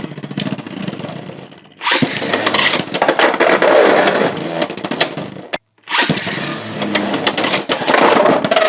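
Beyblade X spinning tops battling in a plastic stadium. A steady spinning hum turns, about two seconds in, into loud grinding with rapid clashing hits. It cuts out abruptly for a moment past halfway, then picks up again just as loud.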